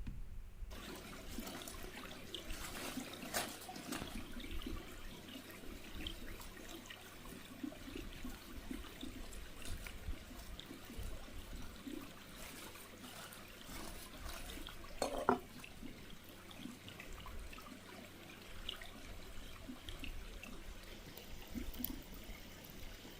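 Water running and trickling, with scattered small knocks and one louder clatter about fifteen seconds in.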